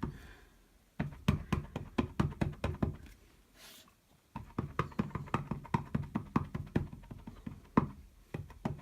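Ink pad in its plastic case tapped rapidly and repeatedly onto a large rubber stamp to ink it up: quick light taps about six a second, in two runs with a short pause between them.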